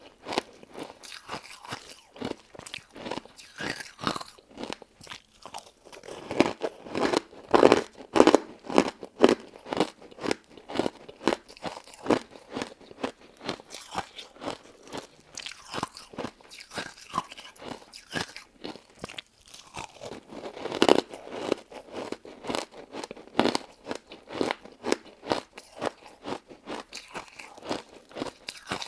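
Close-miked crunching and chewing of a crystal ice dessert: rapid, irregular crunches with louder bites about a third of the way in and again around two-thirds through.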